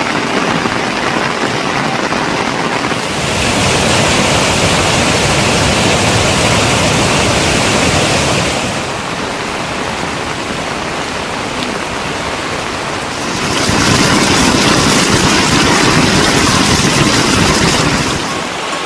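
Steady rushing of flowing water, a dense hiss spread across all pitches. It gets louder and brighter from about 3 to 9 seconds in and again from about 13 to 18 seconds in.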